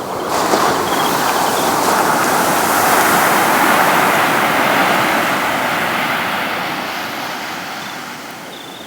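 Sea wave breaking and washing up the beach: a rushing surf noise that swells over a few seconds, then slowly fades away.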